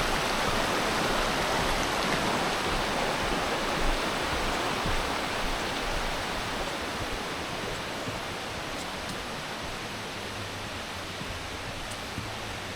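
Rushing water of a rainforest waterfall and creek, a steady even roar that slowly grows fainter.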